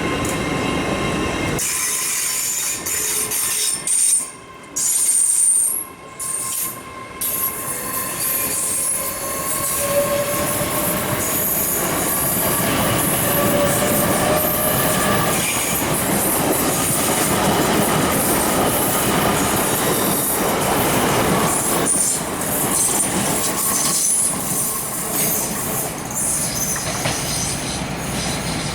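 Train moving along the platform with its wheels squealing: high squealing tones come and go over a steady rolling noise, with a pitched tone rising slowly for a few seconds near the middle.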